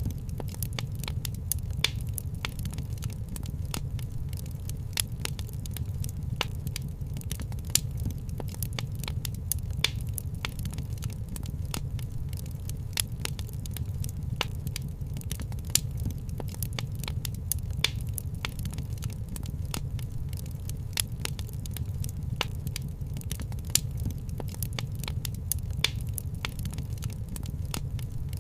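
Wood fire crackling in a fireplace: a steady low rumble under constant small pops, with a sharper snap every couple of seconds.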